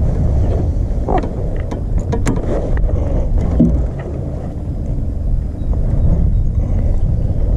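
A steady low rumble, with a few sharp clicks and knocks about one to three seconds in.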